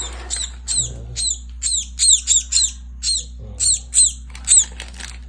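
A maya bird (Eurasian tree sparrow) chirping over and over, about a dozen short, high, downward-sliding chirps, coming faster in quick runs around the middle, over a steady low hum.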